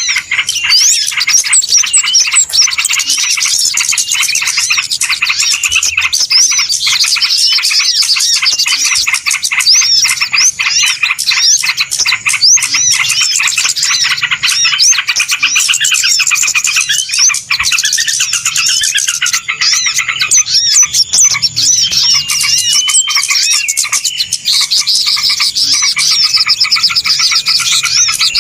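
Loud, dense chorus of many small birds chirping and twittering at once, with quick overlapping calls and rapid pitch sweeps; a bird-lure (pikat) recording played to draw wild birds in.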